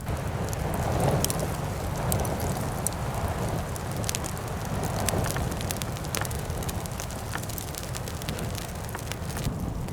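A nodya log fire burning with a steady rush of flame and frequent sharp crackles and pops.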